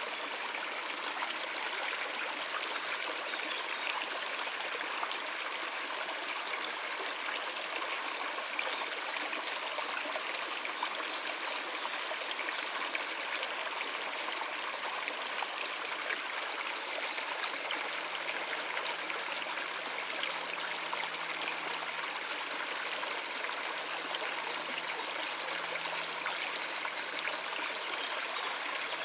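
Stream water running steadily over rocks, a continuous splashing rush. A few brief, high bird chirps come through about a third of the way in and again near the end.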